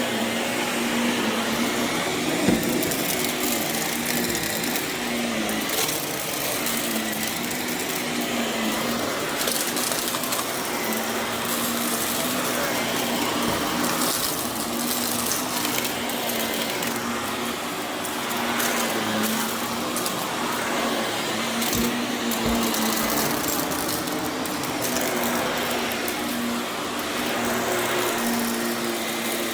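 Vacuum cleaner running steadily on berber carpet, its motor holding one even hum, with scattered crackles as loose debris is sucked up.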